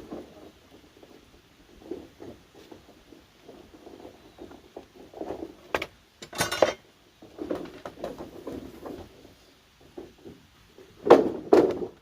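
Bamboo being handled and worked by hand: irregular knocks and clatter, a louder crackling burst a little past halfway, and two loud sharp strikes in quick succession near the end.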